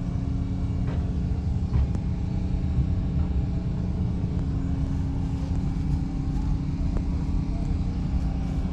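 An engine idling steadily, a constant low hum with a rumble beneath it.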